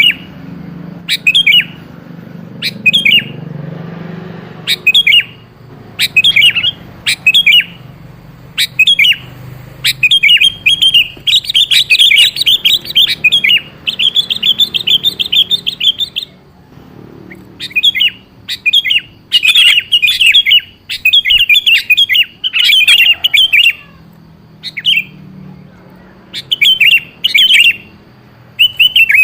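Sooty-headed bulbul (kutilang) calling in short bubbly phrases, repeated about once a second. Longer runs of rapid chattering come in the middle. It is a lure recording of the call, meant to make wild kutilang answer.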